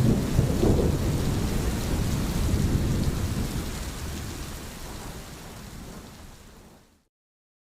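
Heavy rain with low thunder rumbling, a swell of rumble early on, then fading out steadily to dead silence about seven seconds in.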